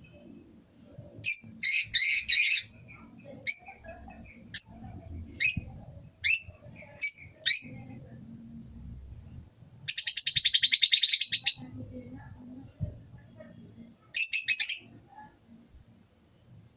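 Lovebirds calling with sharp, high chirps: a quick cluster, then single chirps about a second apart, a rapid chattering run of calls lasting under two seconds, and a last short cluster near the end.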